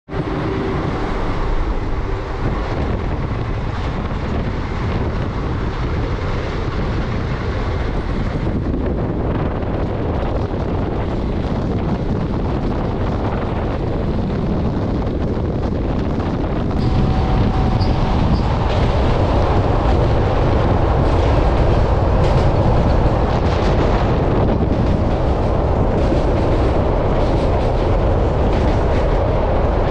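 Passenger train of the 13347 Palamu Express running at speed, heard from an open coach doorway: a steady rumble of wheels on the rails with rushing air. It grows louder about halfway through and stays loud.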